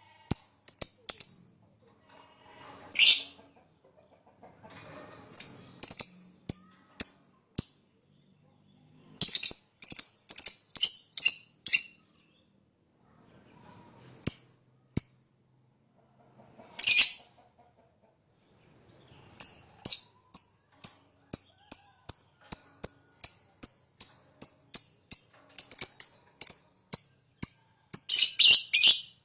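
A lovebird gives quick groups of sharp, high 'tick' chips, the ticking that keepers call ngetik, broken by pauses and two brief harsh screeches. About two-thirds of the way through it settles into a long, even run of chips at about three a second, which turns into a dense, fast cackling trill near the end: the long ngekek.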